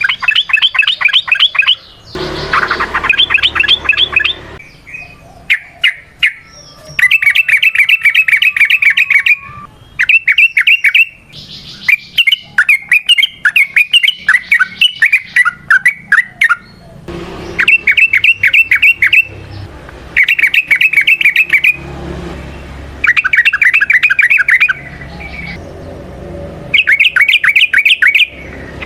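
Yellow-vented bulbul (trucukan) singing its rapid 'ropel' song: repeated bursts of fast bubbling notes, each a second or two long, with short pauses between.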